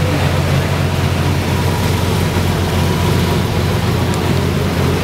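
Lamborghini engine running steadily at low revs, with no revving.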